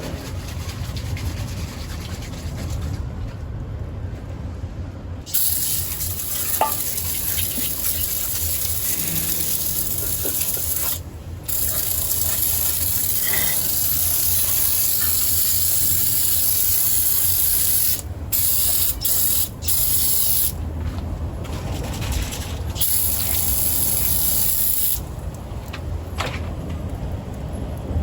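Aerosol can of engine degreaser spraying in long hissing bursts of several seconds each, with brief pauses between, starting about five seconds in and stopping near the end.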